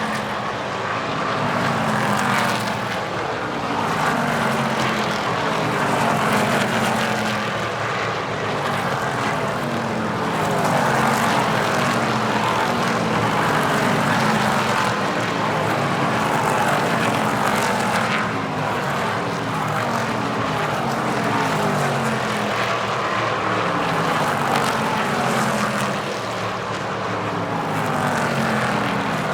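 NASCAR Craftsman Truck Series race trucks' V8 engines racing in a pack, a continuous din of many engines whose pitch sweeps down again and again as trucks go by.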